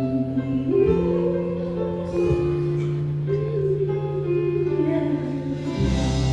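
Live band playing instrumental music: held chords over a changing bass line, with a wavering melody line above them.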